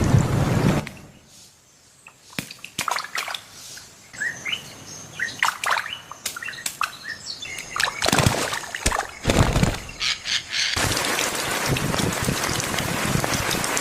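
Birds chirping in short, rising calls, with bursts of rushing noise at the start, a little past the middle, and through the last few seconds.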